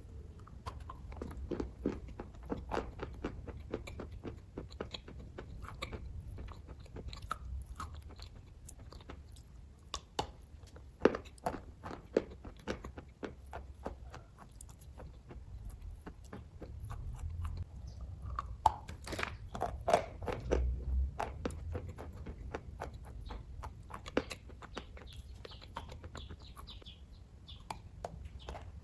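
A person chewing and biting close to the microphone: irregular soft crunches and wet clicks of the mouth, with a few sharper bites.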